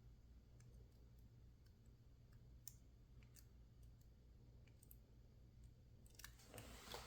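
Faint, scattered light clicks of lockpicking tools working inside a PacLock 410 Pro padlock, a few seconds apart, growing busier near the end.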